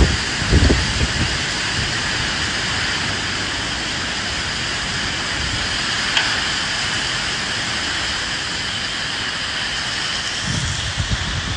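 Steady rain falling in a dense hiss, with low gusts of wind swelling about half a second in and again near the end.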